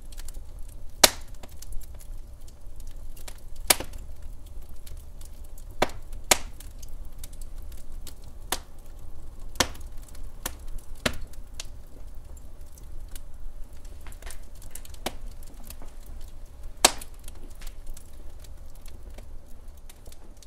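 Log fire crackling: sharp irregular pops and snaps from burning wood over a low steady rumble of the flames.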